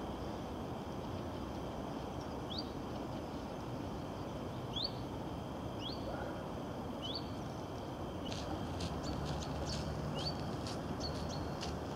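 Small bird chirping outdoors: short rising chirps every second or so, turning into a quicker run of clicks and chirps in the last few seconds, over a steady low background rumble.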